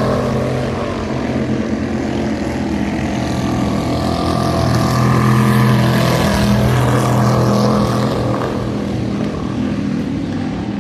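Vintage racing speedboat engine running hard at a steady pitch, growing louder toward the middle and easing off near the end as the boat passes.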